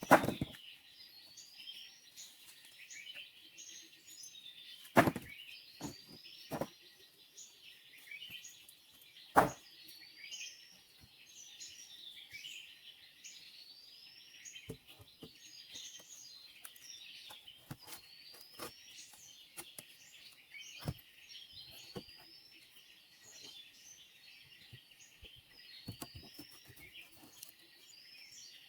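Dense chorus of rainforest insects and birds, a steady high hiss with short rising chirps repeating every second or two. Scattered sharp knocks and clicks cut through it, the loudest about five seconds in and again near nine seconds.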